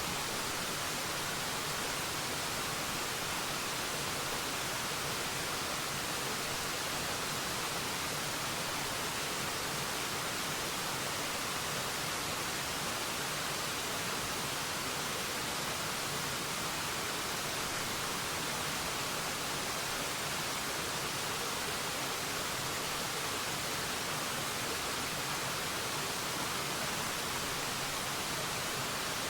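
Waterfall: water falling in a steady, even rush, mostly a hiss weighted toward the high end with little low rumble.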